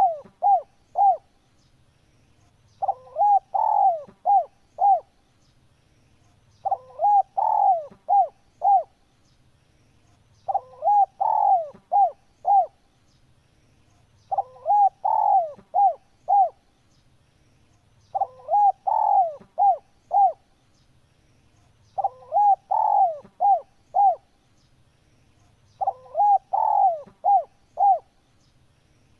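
Spotted dove (tekukur) cooing: the same phrase of several short coos, each phrase about two seconds long, repeated about every four seconds, seven times over.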